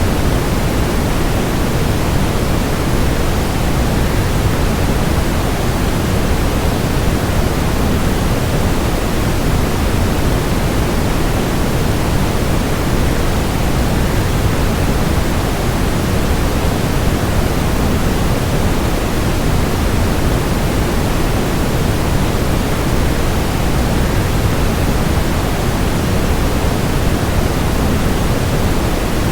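Steady, unbroken rush of a waterfall blended with a constant white-noise hiss, heaviest in the low end.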